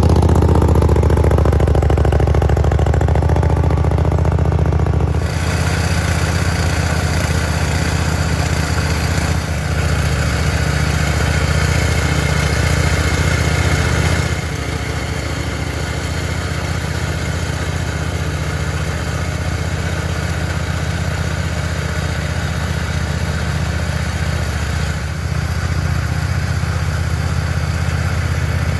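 Garden tractor engine running steadily while its rear tiller smooths a layer of wood chips. A broader rattling noise joins about five seconds in, and the sound drops a little around fourteen seconds.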